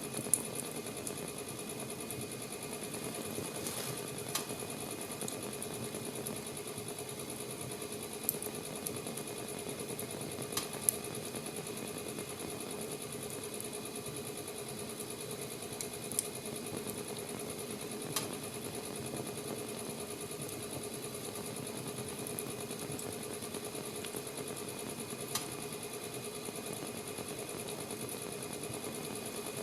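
Wood fire burning with a steady hiss and a sharp crackling pop every few seconds.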